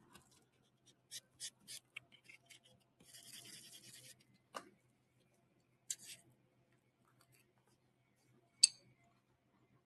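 A nail buffer rubbed lightly across a gel-polished nail: three quick scratchy strokes, then a longer rub, taking the shine off the gel. A few small clicks follow, and one sharp click near the end.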